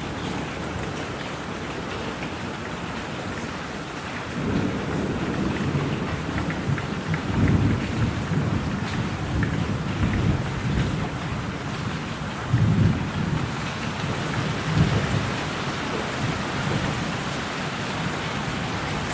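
Steady rain with a long roll of thunder: the rumble begins a little over four seconds in, swells several times and fades out near the end.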